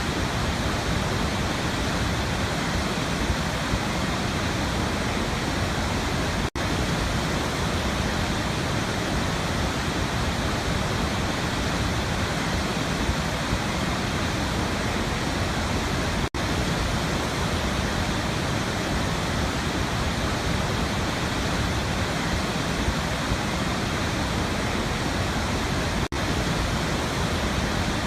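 Waterfall: a steady, even rush of falling water. It cuts out for an instant three times, about ten seconds apart.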